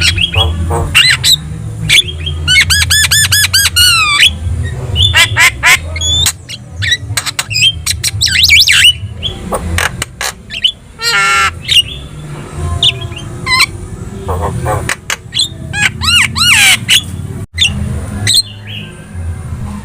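Javan myna (jalak kebo) singing a fast, varied stream of sharp clicks, harsh squawks and whistled notes, some rising or warbling.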